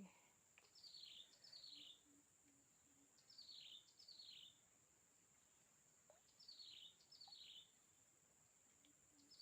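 A bird calling faintly in pairs of short, falling whistled notes, each pair repeated every two to three seconds, over a steady high-pitched insect drone.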